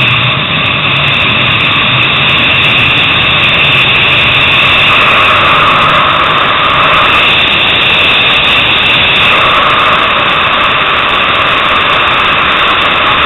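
Sport motorcycle engine at high revs, heard from an onboard camera. It is loud and continuous, and its note shifts a few times as the bike runs through a corner and onto the straight.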